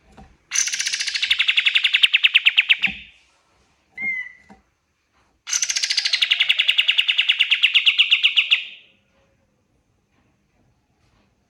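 Kapas tembak songbird singing: two long rapid trills of about three seconds each, every one starting high and falling slightly in pitch, with a short single call between them.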